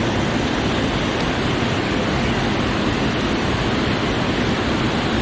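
Steady rush of river water below a dam, an even noise without breaks.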